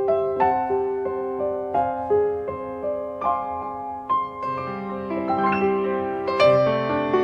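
Piano music: a gentle melody of single struck notes over held lower notes, about two or three notes a second, growing fuller near the end.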